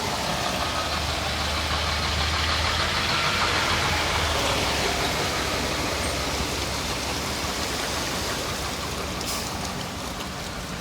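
Heavy rain falling steadily, with a motor vehicle's engine running as a low hum that fades out about four seconds in.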